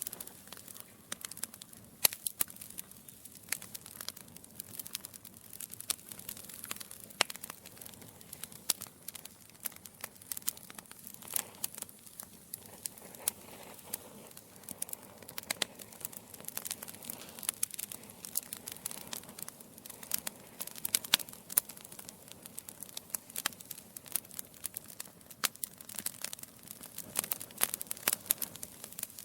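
Wood fire in a fireplace crackling: burning logs giving off many sharp, irregular pops and snaps over a soft hiss of flame.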